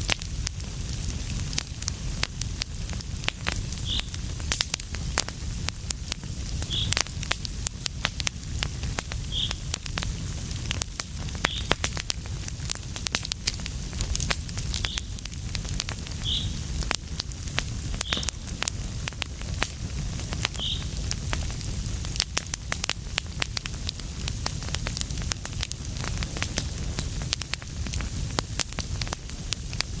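Wood fire crackling in a fireplace: a steady low rumble of flames with frequent sharp pops and clicks. Several brief high squeaks come through now and then in the first two-thirds.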